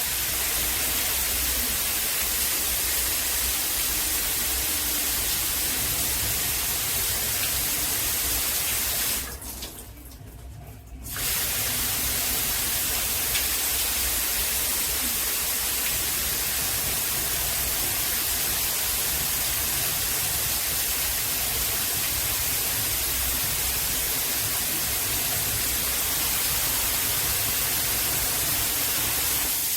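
Water spraying steadily from a handheld shower head. The flow stops for about two seconds around a third of the way in, then comes back on.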